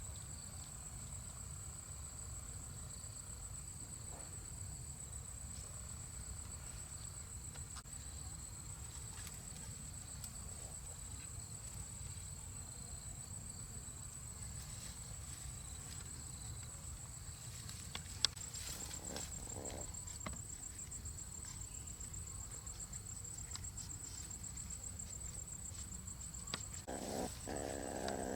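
Insects trilling: a steady, high-pitched, finely pulsing tone over a low rumble. A single sharp click comes about eighteen seconds in, and a louder, lower sound starts just before the end.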